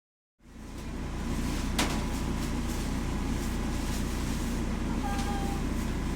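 A steady low rumble of a running vehicle fades in after a moment of silence, with a sharp click about two seconds in.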